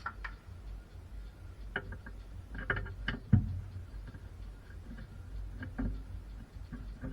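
A few scattered light clinks and knocks, like tools or metal suspension parts being handled and set down, over a low background rumble. The loudest knock comes about three and a half seconds in.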